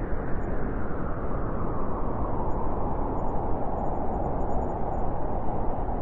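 Strong wind of a snowstorm blowing through a forest, a steady rushing noise that builds into a stronger, higher gust from about two seconds in.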